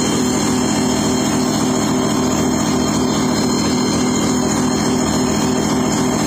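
An engine running steadily with a fast pulsing beat, then cutting off abruptly near the end.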